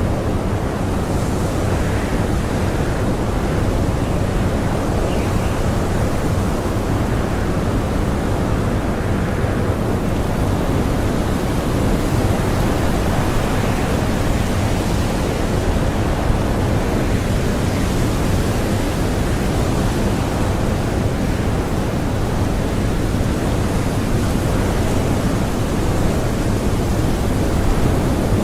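Blizzard wind blowing steadily against a cottage, a dense rushing noise weighted toward the low end that swells and eases slowly.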